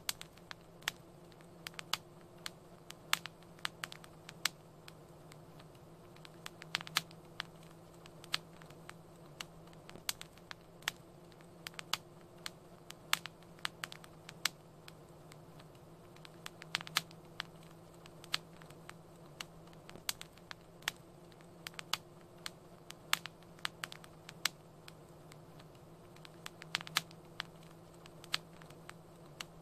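Wood fire crackling, with irregular sharp pops, several a second at times, over a steady low hum.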